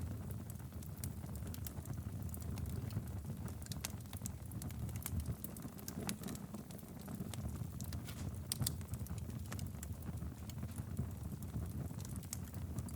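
Wood fire in a fireplace burning steadily: a low rumble of flames with frequent, irregular crackles and pops.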